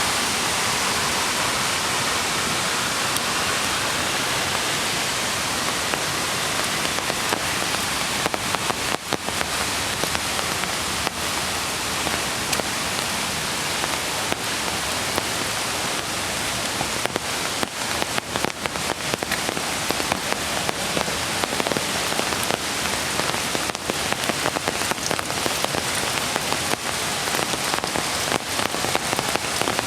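Steady rush of rain and flowing creek water, with close, crisp raindrop patter on surfaces growing more prominent about a quarter of the way in.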